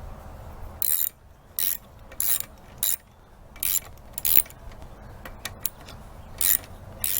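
String trimmer primer bulb being pressed repeatedly, each press pushing a short hiss of air through the carburetor, about eight times with uneven gaps. Only air comes through: the carburetor is not priming with fuel.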